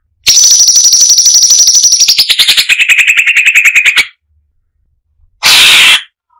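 Brown-breasted bulbul (cucak cungkok) singing a loud, very rapid trill for about four seconds, high-pitched at first and dropping to a lower pitch about halfway. After a pause comes one short, harsh burst near the end.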